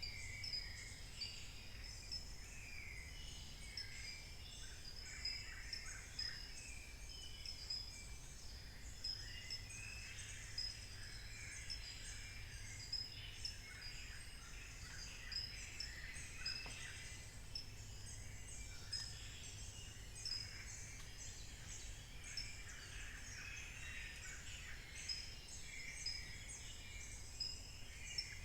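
Dawn chorus of many birds calling at once over one another, with a thin high note repeating about twice a second and a steady low rumble underneath.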